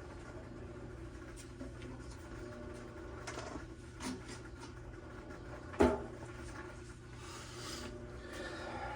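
Small parts and tools being handled: light clicks and rubbing, with one sharp knock about six seconds in, over a steady low hum.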